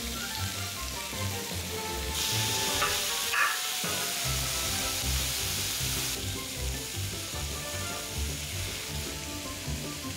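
Sliced cabbage, onion, carrot and diced ham sizzling as they are stir-fried in a pan; the sizzle starts about two seconds in and stops abruptly about four seconds later. Background music with a steady bass beat runs under it.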